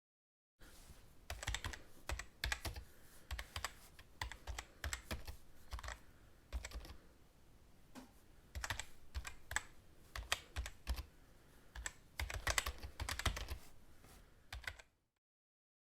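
Typing on a computer keyboard: irregular flurries of key clicks with short pauses between them, stopping about a second before the end.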